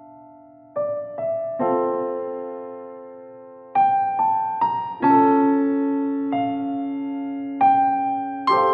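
Background music: slow, gentle solo piano. Single notes and soft chords are struck one after another, each left to ring and fade.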